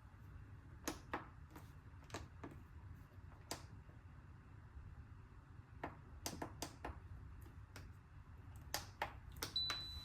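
Quiet, scattered clicks and light taps of kitchen work, bunched together for a moment in the middle, with a short high beep near the end.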